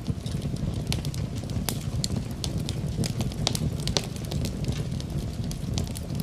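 Fireplace fire crackling: a steady low rumble of flame with frequent irregular sharp pops and snaps.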